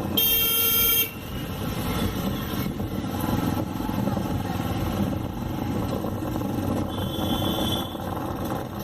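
A horn blasts once for about a second, loud and strongly pitched. After it come the steady running of a motorcycle and the rush of road and wind noise.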